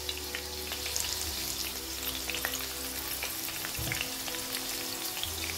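Green chillies and ginger pieces frying in hot oil in a pot over a low-to-medium flame: a steady sizzle with frequent sharp crackles.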